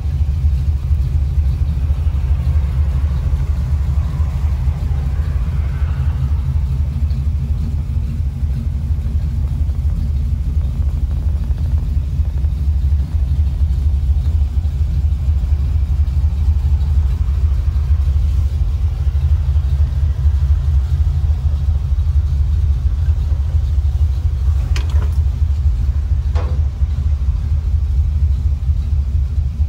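327 V8 engine of a 1956 Ford F100 panel truck running at a steady speed with a deep, even rumble. Two faint clicks come near the end.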